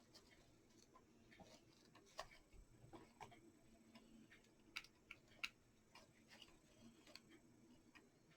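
Near silence with faint, irregularly spaced light clicks and taps of small craft pieces being handled and set down.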